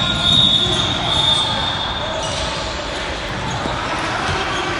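Basketball game sounds in a gym: a ball bouncing on the court and voices echoing around the hall. A steady high-pitched tone is heard until about two seconds in.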